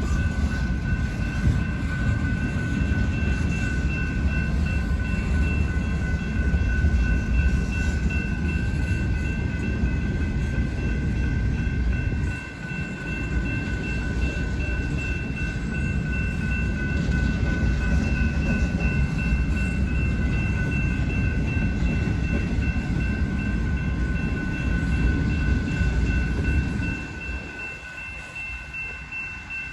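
BNSF intermodal freight train cars rolling past with a steady low rumble and a thin, steady high whine above it. The rumble dips briefly about twelve seconds in and falls away near the end.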